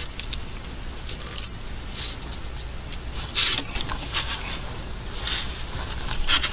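Light handling noises of small objects: brief soft scrapes and rustles a few times, with faint clicks, over a steady low hum.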